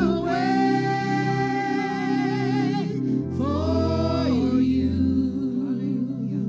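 Gospel singing with instrumental backing: a voice holds one long wavering note for about three seconds, then sings a shorter phrase, over steady sustained accompaniment.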